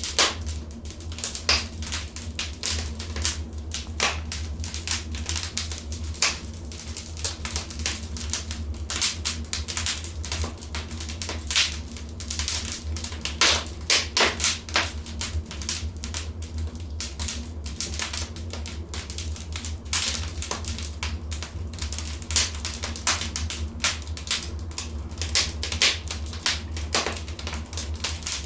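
Wood fire in a fireplace crackling, with many irregular snaps and pops over a low steady rumble.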